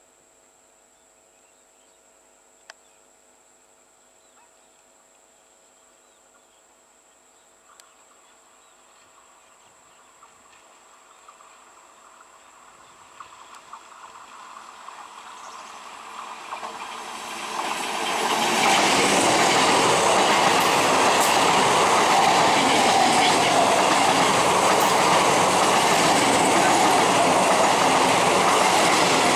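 EMU (electric multiple unit) local train approaching along the track: quiet at first, it grows steadily louder for about ten seconds, then runs past close by with loud, steady wheel-on-rail noise.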